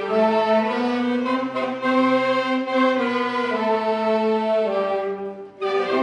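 Amateur church wind band playing slow, sustained chords, the notes held and changing every second or so, with a brief break about five and a half seconds in before the next chord comes in.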